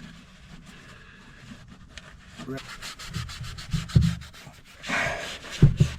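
Rubbing and scraping from hands working on metal clutch parts, with rapid small clicks throughout and a couple of dull knocks in the second half.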